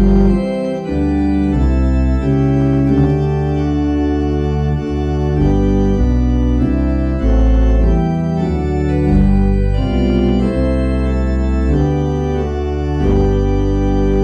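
Organ playing slow held chords over a deep bass line, the music changing harmony every second or so.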